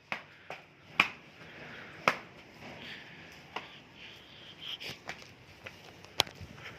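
Goat hooves tapping and knocking on hard ground as the goat jumps about: scattered sharp taps, the loudest about one, two and six seconds in.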